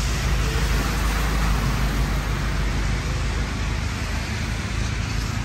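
Steady rain on the car, heard from inside the cabin, over a low steady hum.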